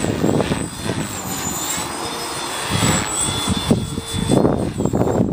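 Electric Align T-Rex 450 Pro RC helicopter in flight, its motor and rotor whine wavering in pitch as it manoeuvres, with wind buffeting the microphone in gusty rumbles.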